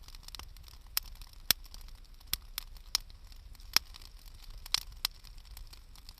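Wood fire crackling: about eight sharp, irregularly spaced pops of burning wood over a faint steady hiss.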